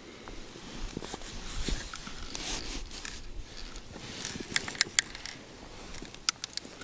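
Close handling noise: rustling and scraping, with a few sharp clicks a little past halfway and another pair near the end.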